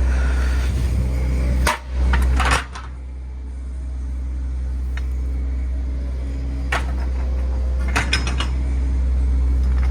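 Steady low rumble of a stationary truck at a loading ramp, briefly dropping about two seconds in, with several sharp metallic clanks and knocks, a few of them close together near the end.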